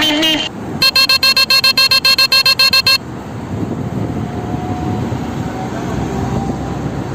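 A vehicle horn tooted rapidly, about six short toots a second for about two seconds, followed by steady street traffic noise.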